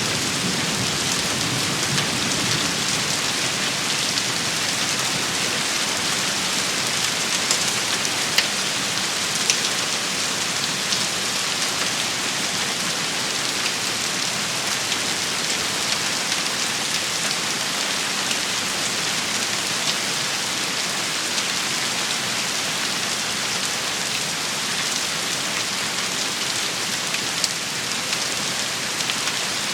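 A steady, heavy rain shower, a dense even patter with a few sharper drop ticks. The tail of a thunder rumble fades out in the first couple of seconds.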